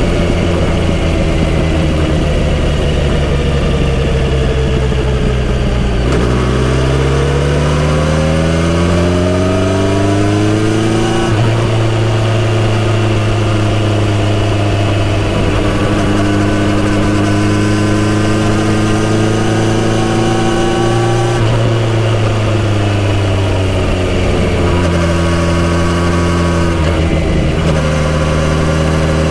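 Kawasaki Z900RS inline-four with a full-system exhaust, heard while riding. The engine note sinks for the first several seconds, then climbs steeply under acceleration, holds steady through the middle, drops again as the bike slows, and settles, with a brief break near the end.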